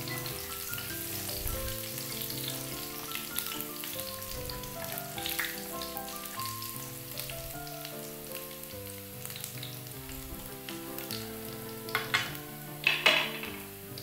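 Minced garlic and shallots sizzling steadily in hot oil in a nonstick frying pan as they turn golden, stirred with a wooden spatula. A few sharp clacks near the end are the spatula striking the pan.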